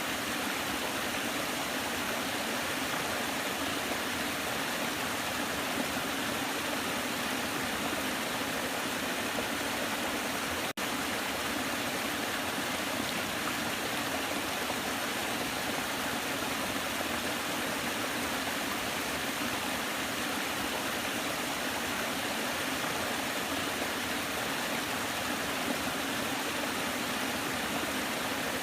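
Waterfall: steady rushing water, with a split-second dropout about eleven seconds in.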